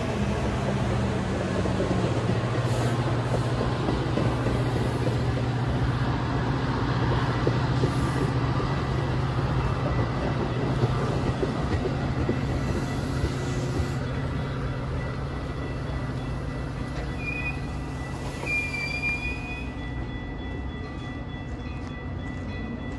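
A train rolling past: a steady rumble of locomotive and cars that slowly fades, with a couple of short, high wheel squeals near the end.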